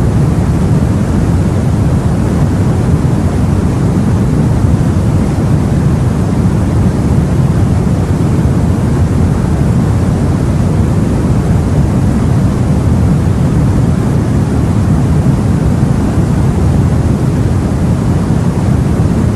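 Sea ambience heard aboard a boat: a loud, steady low wash of water and wind noise, with no single wave breaks or other events standing out.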